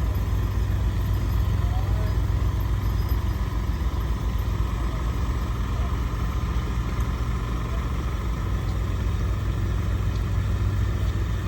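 Scania S650 XT heavy truck's V8 diesel engine running steadily with a deep, even rumble, with no revving or gear changes.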